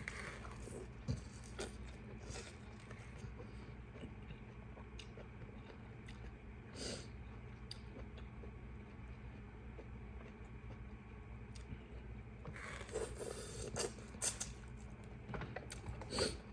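Quiet eating sounds from a seafood boil: scattered light clicks, scrapes and rustles of food being handled and chewed, with a few louder short rustles near the end.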